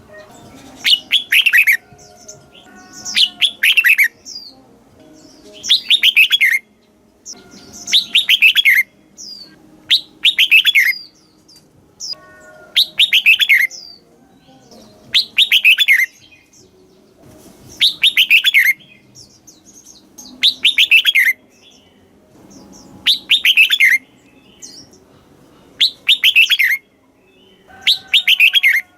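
Red-whiskered bulbul singing, repeating a loud, short phrase of quick falling notes about every two and a half seconds, around a dozen times.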